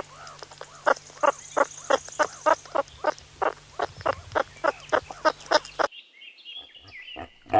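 Meerkat calling: a fast, even series of short, sharp chirps, about four a second, changing near the end to fainter, higher chirping.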